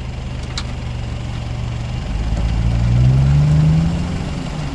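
Jeep engine running at a steady low speed, then revving up about two seconds in, holding the higher revs for a second or two and easing back near the end, as the 4x4 works its way through a muddy river crossing.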